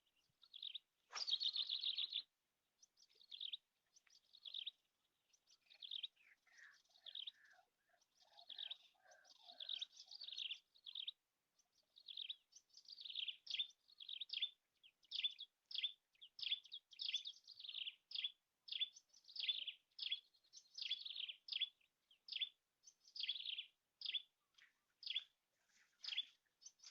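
Small birds chirping: a long run of short, repeated high chirps, coming about twice a second in the second half.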